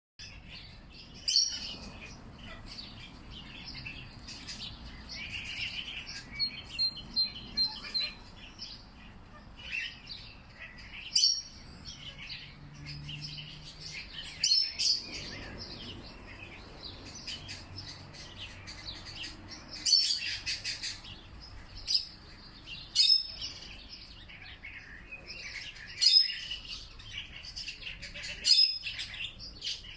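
Several songbirds chirping and calling, with short sharp chirps every second or two and a brief rapid trill, over faint steady background ambience.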